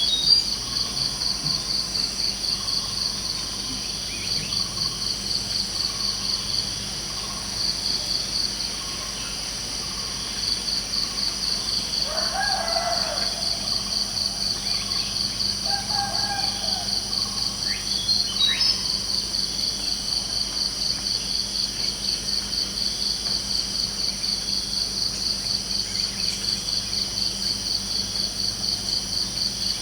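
Insects chirping in a steady, rapidly pulsing high trill throughout, with a few short bird calls in the middle.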